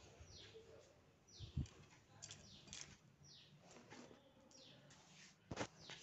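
Faint bird chirps, each a short falling note, repeating about once a second. A low thump about one and a half seconds in and a sharp click near the end.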